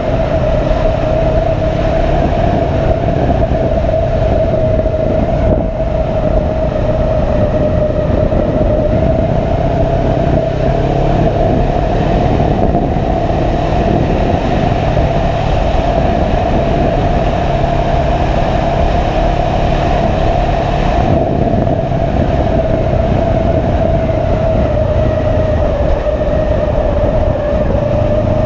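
Motorcycle riding at a steady cruising speed, recorded on the bike: loud wind and road noise over a steady engine drone, with one high, steady whine that barely changes in pitch.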